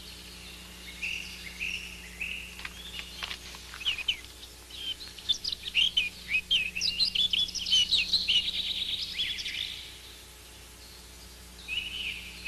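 Small birds chirping and twittering in quick, high calls, thickest through the middle and thinning out near the end.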